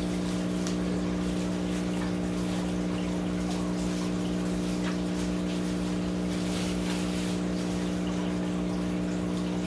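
Steady hum of running aquarium pumps and filters with water trickling, plus faint rustling and handling noises.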